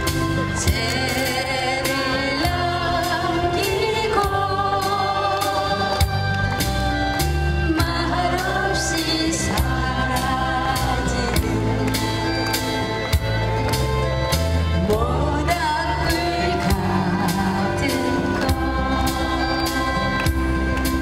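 A song sung live over instrumental accompaniment with a steady beat and bass.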